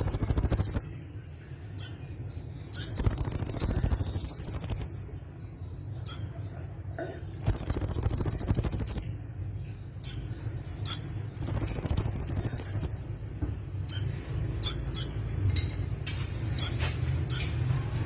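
Konin songbird singing its full repertoire: high phrases of about two seconds repeated every few seconds, with short chirps in between. A faint steady high tone and a low hum sit underneath.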